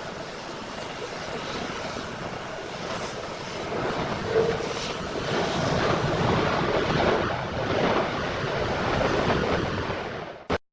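Rushing jet-engine noise of an Airbus A340-600 taxiing, swelling louder about halfway through, then cut off suddenly near the end with a brief click.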